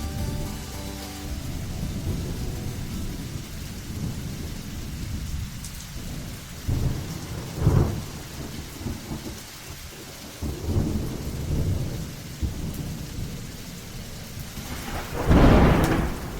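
Thunder rumbling over steady rain, with louder rolls about seven and eleven seconds in and the loudest peal near the end. The last shamisen notes fade out in the first second.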